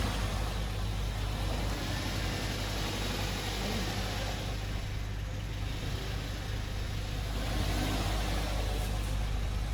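Toyota GLi's engine running steadily with an even, low hum, a running sound that the mechanic says is bad and not as original.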